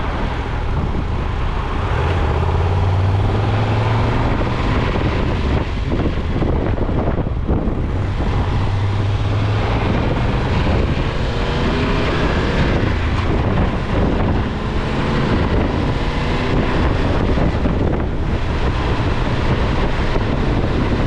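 Steady outdoor noise of wind on the microphone and road traffic, with a deeper rumble swelling twice, about two and eight seconds in, as vehicles pass.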